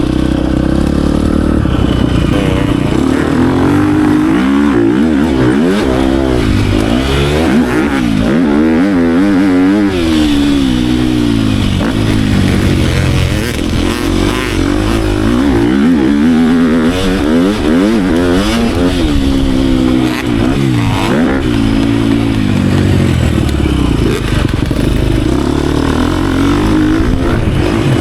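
Dirt bike engine under hard riding, revving up and dropping off again and again through the throttle and gear changes as it laps a motocross track.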